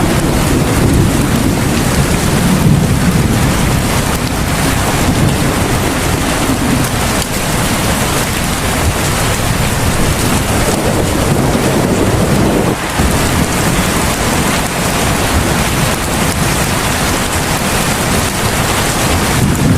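Heavy rain falling steadily, with a low rumble swelling in the first few seconds and again about ten to twelve seconds in.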